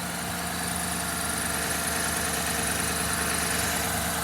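2014 GMC Sierra's L83 5.3-litre V8 idling steadily under the open hood. It runs quietly, with a faint thin high whine over the engine note.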